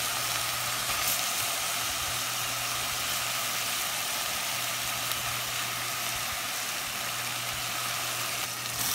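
Beef chuck, onion and chiles sizzling in oil in a stainless pot, a steady hiss over a low constant hum.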